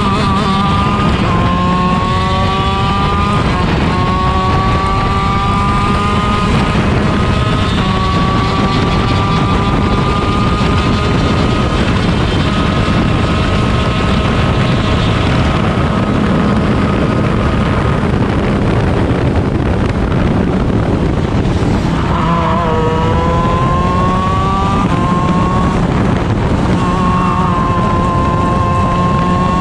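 Onboard sound of a 125 cc shifter kart's two-stroke Honda engine pulling hard through the gears, its pitch climbing and dropping back at each upshift. It holds high and steady for about ten seconds, falls away as the kart brakes and downshifts a little after twenty seconds, then climbs through the gears again. Constant wind noise sits under the engine.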